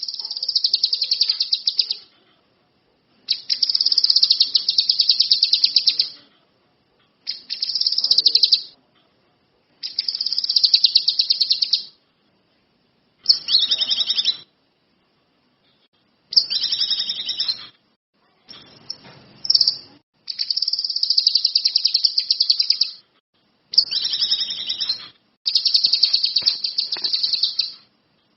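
A kinoi songbird singing in full voice: a series of rapid, high trills, each one to three seconds long, about ten of them with short pauses between.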